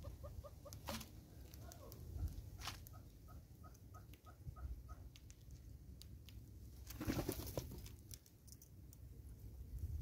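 A bird calling in quick runs of short, even notes, twice in the first half. There are a few sharp taps, and about seven seconds in a brief flurry of wing flaps as a southern yellow-billed hornbill takes off.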